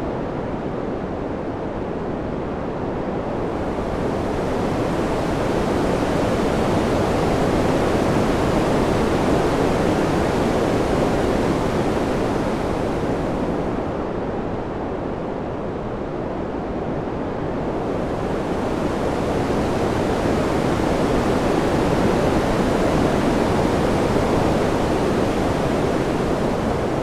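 Steady rushing wind noise, a soft even hiss with no gusts or whistles. It swells and eases slowly, its brighter top thinning away twice about fourteen seconds apart before filling back in.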